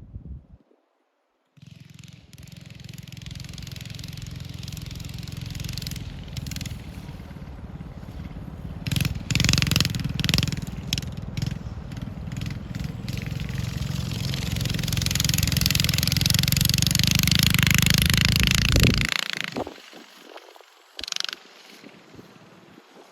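Monster Moto mini bike with a swapped-in 212cc single-cylinder engine running at speed on a timed ride. It grows louder for several seconds before its sound drops away sharply near the end.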